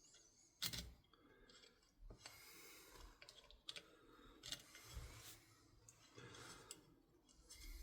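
Faint, scattered clicks and taps of small metal parts and tools being handled while working at a C-clip on an airsoft rifle's upper receiver, the sharpest click about a second in.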